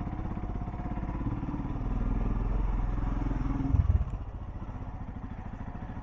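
Motorcycle engine running at low road speed, its note picking up from about two seconds in and dropping back sharply after about four seconds, as when the throttle is opened and then closed.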